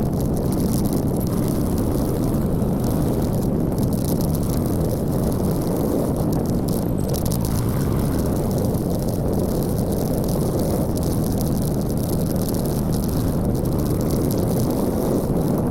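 Steady rush of wind and engine noise from a moving motorcycle, a dense unbroken drone.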